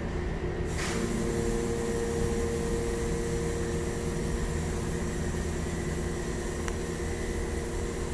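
A steady mechanical hum with a few fixed tones over a noisy wash, which changes abruptly a little under a second in and then holds steady.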